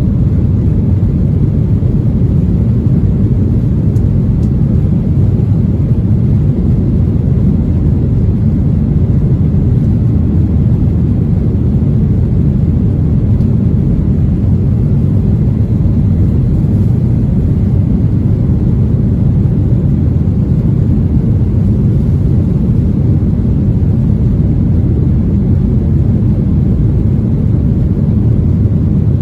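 Jet airliner taking off, heard from inside the cabin: a loud, steady low rumble of engines and airflow that holds even throughout.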